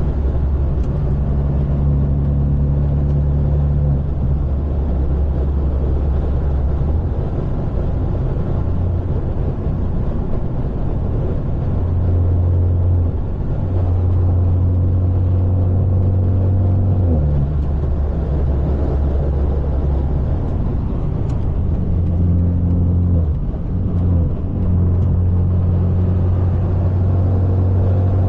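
Straight-piped, catless exhaust of a BMW 530 sedan droning steadily while cruising. The low exhaust note holds a steady pitch for several seconds at a time, then steps up or down in pitch several times as engine speed changes.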